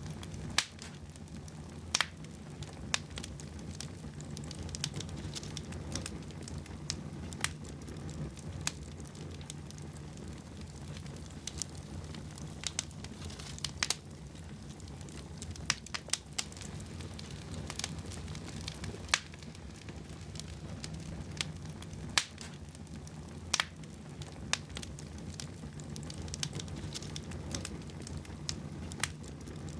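Fire burning in a fireplace: irregular sharp crackles and pops scattered over a steady low rumble.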